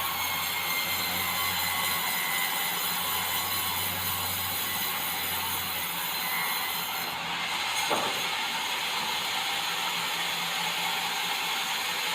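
Swing blade sawmill running steadily with a continuous hissing mechanical noise and a low hum that drops away about six seconds in. A single short knock sounds about eight seconds in.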